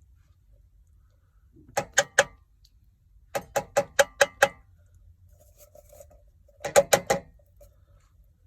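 Sharp metallic taps against cookware in three quick runs: three taps, then six, then four, several a second.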